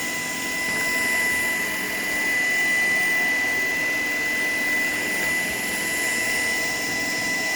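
Shark PowerDetect cordless vacuum running steadily while vacuuming the floor: an even rush of air with a constant high whine, its level swelling and easing slightly.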